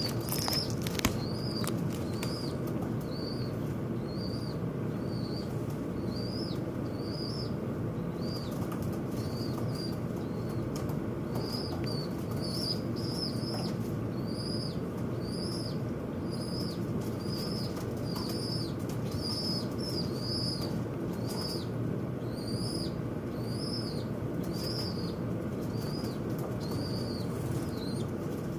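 Small birds at a window fighting, with wings fluttering and a steady run of short, arched chirps, a little more than one a second, over a steady low rumble.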